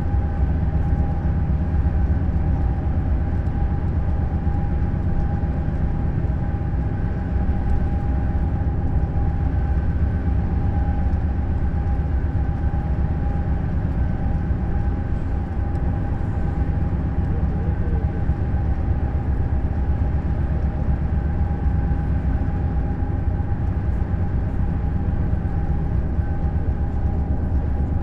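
Neoplan Skyliner N 1122/3C double-decker coach driving at a steady speed: an even low engine and road rumble with a constant whine above it, unchanging throughout.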